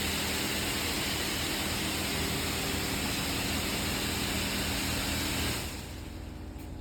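High-pressure water spray from a PDQ Laserwash 360 Plus touchless car wash: a steady, loud hiss with a faint pump hum beneath, cutting off suddenly about five and a half seconds in.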